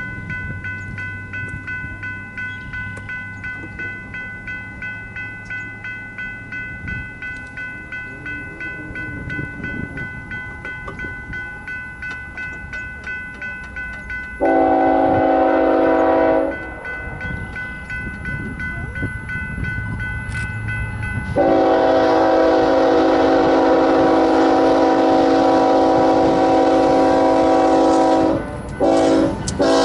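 A grade-crossing bell rings steadily, pulsing over the low rumble of an approaching train. Then the horn of the lead BNSF GE Evolution-series locomotive sounds the crossing signal: a long blast about halfway through, a second, longer blast, and near the end a short blast followed by another long one.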